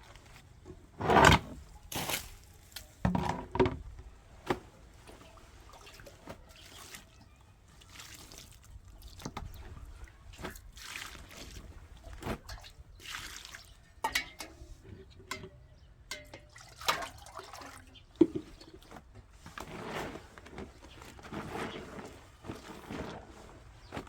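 Irregular knocks, clatters and short scrapes of hand work with tools and materials, mixed with wet, liquid sounds. The loudest knocks come about a second in and again around three seconds in.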